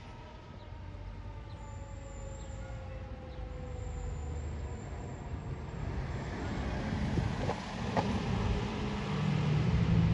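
Fire truck's siren tone winding slowly down over the first few seconds, then a low rumble that grows steadily louder toward the end.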